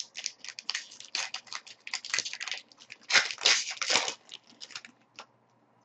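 Trading cards and their packaging being handled: a quick run of rustling, sliding and crinkling strokes that stops about five seconds in.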